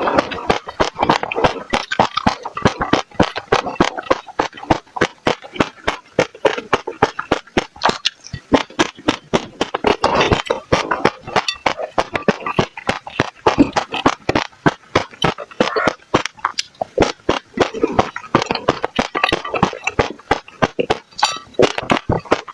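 Passion fruit seeds being bitten and crushed between the teeth: a dense, irregular run of crisp cracks and pops, several a second, throughout.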